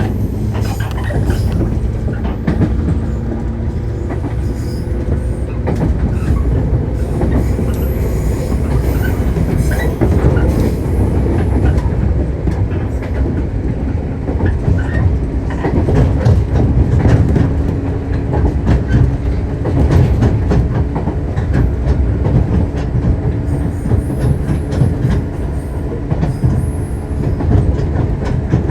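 Shinano Railway 115 series electric train heard from inside the car while running: a steady low rumble of the bogies and traction motors, with the clickety-clack of wheels over rail joints.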